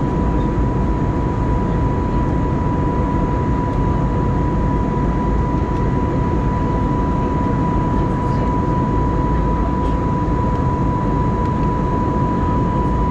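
Steady cabin noise of an Airbus A320neo in flight: an even rush of air and CFM LEAP-1A engine noise, with a constant high tone running through it.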